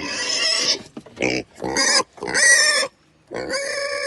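Pigs squealing in a series of harsh, high calls, about five in four seconds with short breaks between them.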